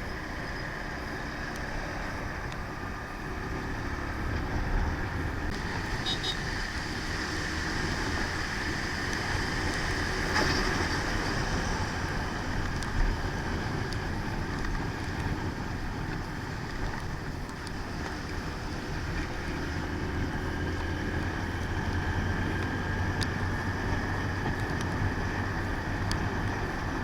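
Motorcycle ridden at steady speed on a highway: engine running under a steady rush of wind and road noise on the rider's microphone.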